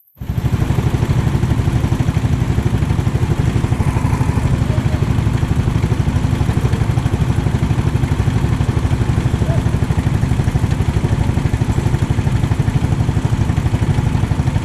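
390cc rental kart's single-cylinder four-stroke engine running hard at a steady pace, with a fast even pulsing. It cuts in sharply just after a moment of near silence.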